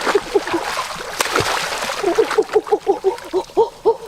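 Rapid series of short, pitched animal calls, about five or six a second, pausing briefly about a second in, over splashing water.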